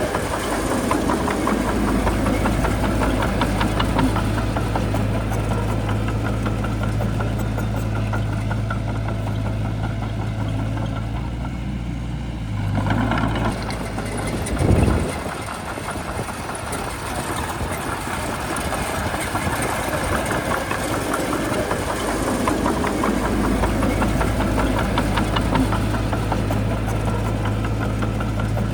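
Bulldozer's diesel engine running steadily, with a brief louder surge about halfway through that drops in pitch.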